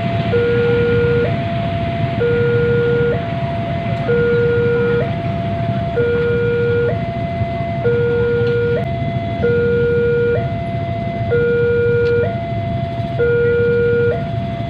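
Electronic two-tone alarm alternating steadily between a low and a high note, about one note every three-quarters of a second, over a steady low traffic rumble.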